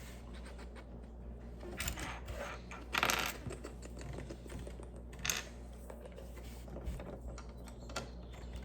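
Small plastic Lego pieces clicking and rattling as they are handled and pressed together, with a longer rattle about three seconds in and a sharp click about five seconds in.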